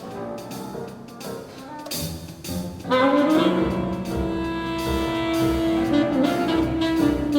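Live performance of a saxophone concerto with symphony orchestra: a quieter passage, then about three seconds in the ensemble comes in louder and the alto saxophone slides up into a long held note over the orchestra.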